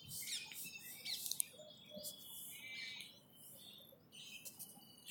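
Faint, scattered chirps of small birds.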